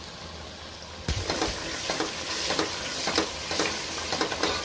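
Onion-tomato masala sizzling as it fries in oil in a pressure cooker pot: the bhuna stage, cooking out the raw taste of the spices. A wooden spoon stirs and scrapes the pot in strokes about two a second. The sizzle jumps up suddenly about a second in.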